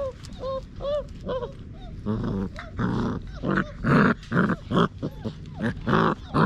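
38-day-old Basset Hound puppies playing: a few short, high whimpering squeaks, then from about two seconds in a louder run of rough play growls, two or three a second.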